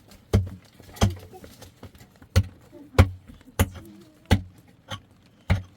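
A hand drum struck about seven times in an uneven rhythm, each beat a sharp hit with a deep thud and a short ring.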